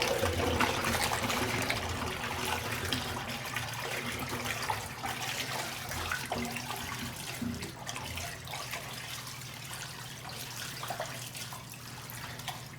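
Water of a giant toilet's flush swirling and draining out of the bowl, a rushing that slowly dies down.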